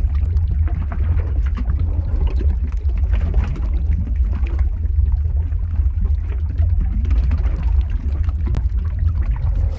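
Lava-flow ambience sound effect: a steady deep rumble with many small crackles over it.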